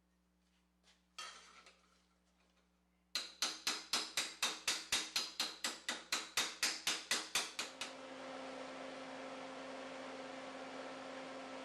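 A rapid run of about twenty sharp clicks, roughly four or five a second, then a steady hissing noise with a low hum that carries on.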